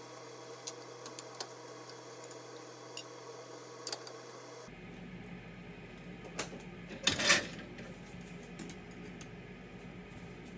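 Kitchen sounds of dishes and utensils: scattered light clinks and taps over a steady low hum, with one louder clatter about seven seconds in.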